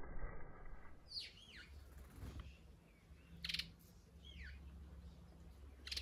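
A low steady hum that stops about a second in, then small birds calling: a few short arched chirps and sharp high chips, spaced a second or two apart.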